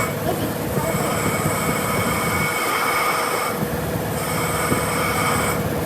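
High metallic squeal made of several steady tones over a rough machine rumble. It breaks off briefly about three and a half seconds in and again near the end.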